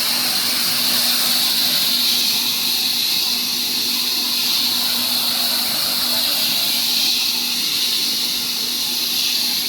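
Ginger high-pressure spray washing machine running: a steady hiss of water jets spraying, over a faint steady low hum.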